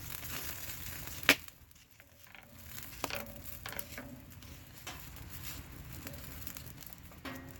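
Campfire crackling with scattered small ticks and pops, and one sharp knock about a second in that is the loudest sound.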